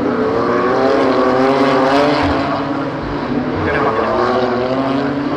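BMW M2 CS race cars' twin-turbo straight-six engines running at racing speed, several notes overlapping and rising and falling as the cars pass and change gear.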